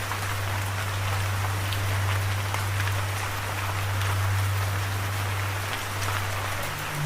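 Steady rain falling, an even hiss with individual drops ticking through it. A low steady tone runs underneath and steps up in pitch near the end.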